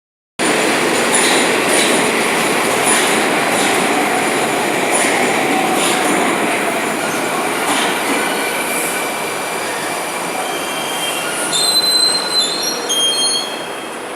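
Moscow metro train running and slowing down: the steady rumble carries wheel clicks over the rail joints that come further apart. Near the end the wheels or brakes give several high squeals as it comes to a stop.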